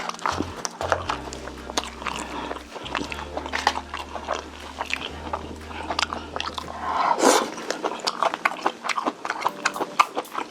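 Close-miked chewing and biting of Korean braised chicken: rapid, wet mouth clicks and smacks, with a louder, longer wet sound, like a slurp of a mouthful, about seven seconds in.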